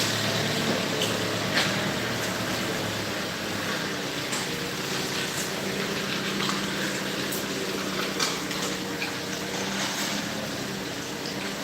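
A vehicle engine running steadily under a constant hiss of noise, with scattered light clacks on top.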